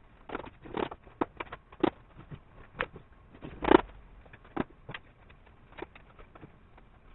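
A string of irregular clicks and knocks, with one louder knock about three and a half seconds in.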